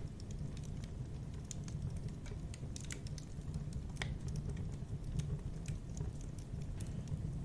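Wood fire crackling, with irregular sharp pops and snaps over a steady low rumble of flame; one louder crack about four seconds in.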